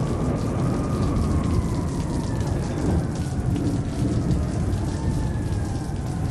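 Rain falling steadily with rolling thunder: a dense low rumble under the hiss of the rain. Faint tones drift slowly above it.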